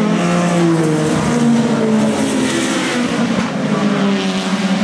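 Several racing saloon and sports cars going past at speed, their engine notes overlapping and rising and falling in pitch as they go by.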